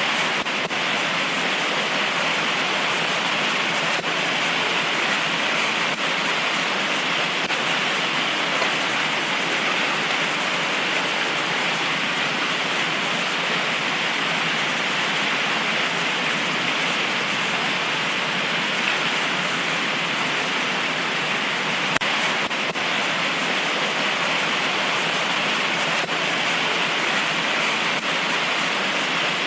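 Heavy tropical rain falling in a steady, unbroken hiss, with one or two sharper drip ticks.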